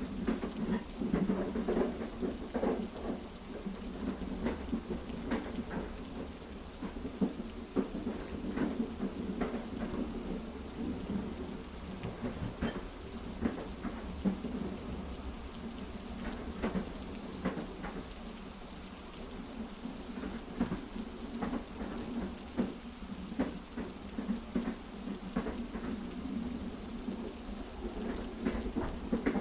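Heavy rain over a steady low rumble, with short sharp clacks at irregular intervals, mixed with a train's wheels clacking on the rails.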